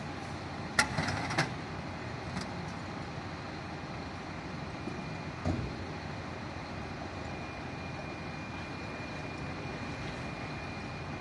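Steady low rumble of an idling truck engine, with a few sharp clicks or knocks about a second in and a dull thump about five seconds in.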